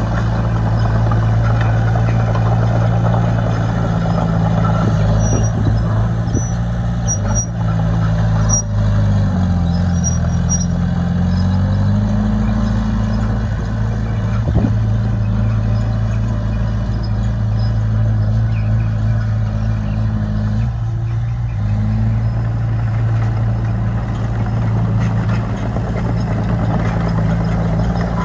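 Heavy diesel engine of a working bulldozer running steadily under load. Its pitch drops for a couple of seconds about a third of the way in, rises again, and dips once more later. A few faint short high squeaks come early on.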